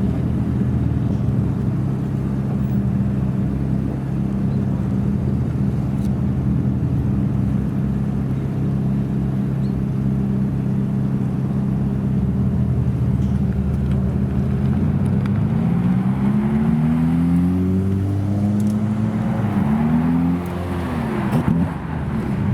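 A supercar engine running with a steady low note, then rising in pitch in several climbing revs over the last few seconds.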